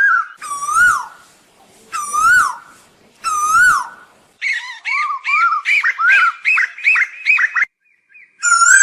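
Asian koel calling loudly: three separate rising-and-falling calls about a second and a half apart, then a fast run of short rising notes, about three or four a second, for some three seconds, with another call near the end.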